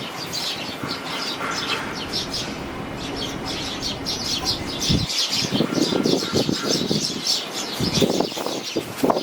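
Fledgling sparrows chirping in rapid, continuous high peeps. Strong wind gusts rumble on the microphone about halfway through and again near the end.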